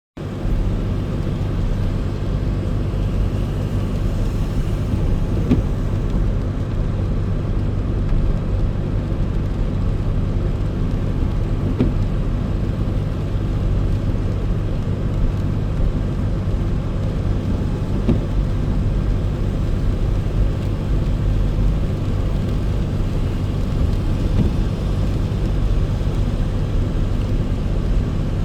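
Car driving: a steady low rumble of engine and road noise, with a faint tick about every six seconds.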